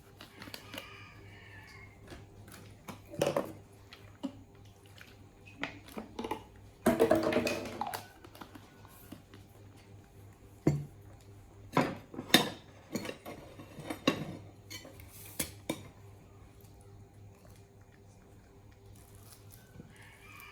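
Dishes and utensils being handled, with scattered clinks and knocks and a longer rattling clatter about seven seconds in.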